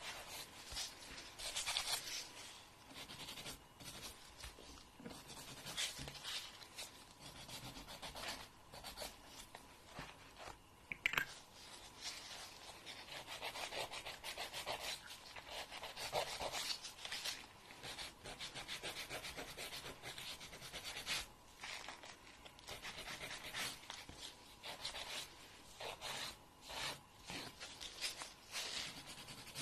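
Fingernails being filed by hand, with quick repeated rasping strokes and short pauses between runs. One sharper, louder scrape comes about eleven seconds in.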